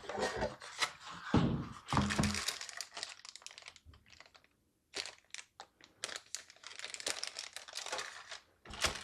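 Motherboard retail box being opened and its packaging handled: cardboard and plastic rustling and crinkling, with scattered light clicks and taps. A brief pause about halfway through, then the rustling starts again.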